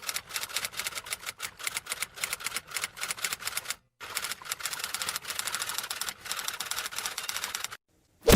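Typewriter sound effect: rapid, even key clacks in two runs with a brief pause just before halfway, then one loud, sharp hit at the very end.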